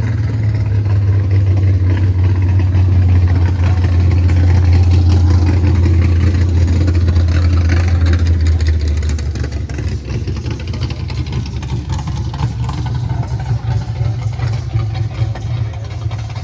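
A car engine running nearby with a deep, steady rumble. It is loud for the first nine seconds or so, then drops away.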